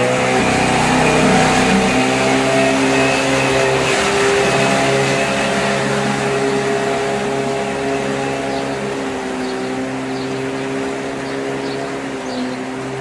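A motor engine running steadily with a slight wavering in speed, slowly fading as it moves away.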